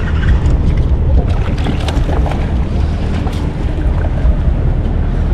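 Wind buffeting the microphone in a steady low rumble, with light water splashes and small ticks against a small fishing boat.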